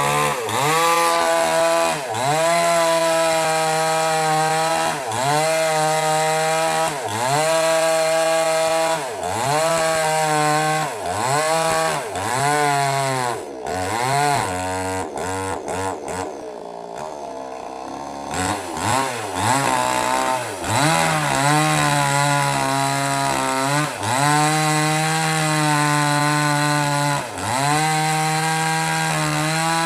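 Small petrol two-stroke chainsaw running at high speed and cutting wood, its pitch sagging and recovering every second or two as the chain bites. About halfway through it drops to idle for a couple of seconds, then revs back up and carries on cutting.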